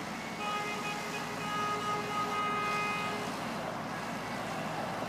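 Ice cream truck's chime playing its tinny electronic jingle, a short run of notes that stops about three seconds in, over steady street noise.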